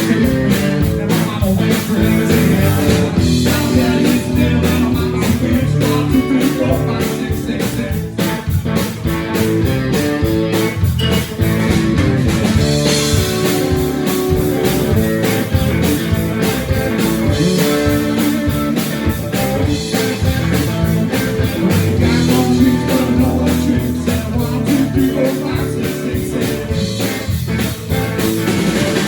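A blues-rock band playing live: guitar over bass and drums, with a steady beat.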